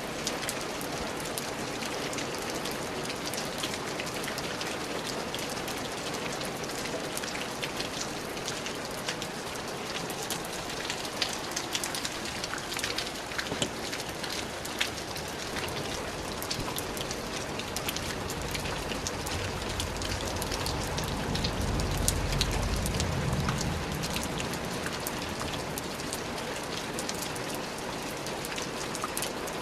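Steady rain falling on a surface, with sharp individual drop hits through it. About two-thirds of the way through, a low rumble swells for several seconds and fades.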